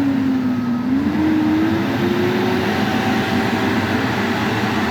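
A motor vehicle's engine running steadily. Its pitch dips, then rises about a second in and holds level.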